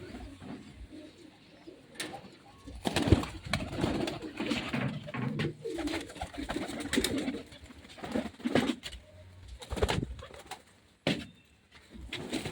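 Pigeons cooing in low, warbling runs through the middle of the stretch, with a few sharp clicks in between.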